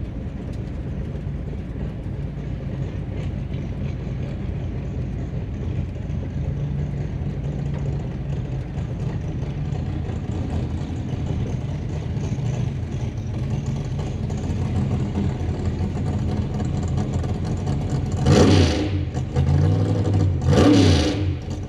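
1957 Chevy 210's engine running steadily at low speed while cruising, with two loud revving surges near the end.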